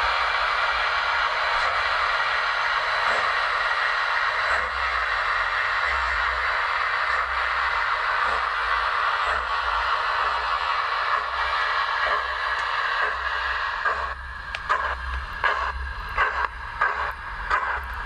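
OO gauge model steam locomotive running with a steady hiss. About 14 seconds in the hiss thins and gives way to a string of short, sharp, irregular chuffs or clicks.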